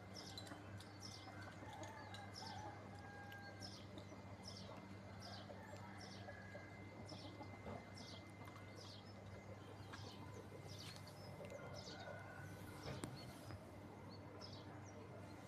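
Chickens calling faintly: repeated short, high chirps about once or twice a second, with a few soft lower calls, over a steady low hum.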